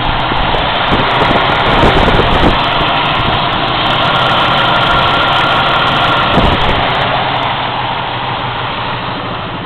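1993 Ford Mustang's 2.3-litre four-cylinder engine idling choppily, with the electric radiator cooling fan running.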